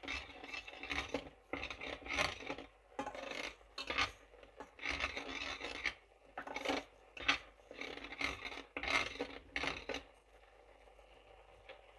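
A spoon scraping and stirring spice paste against a cooking vessel in repeated rasping strokes. It stops about ten seconds in.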